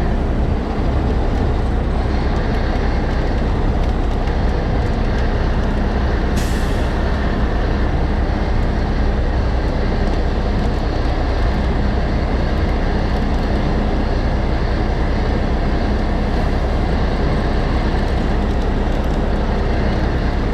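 Heavy diesel truck engine running steadily, a low drone with no change in speed, with a short hiss about six seconds in.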